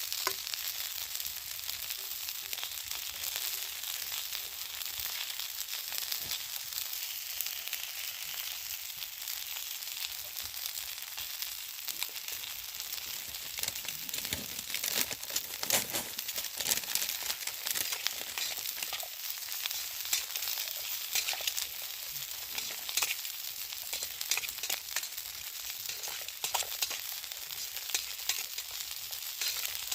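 Food sizzling as it cooks over a campfire: a steady high hiss with frequent small crackles and pops.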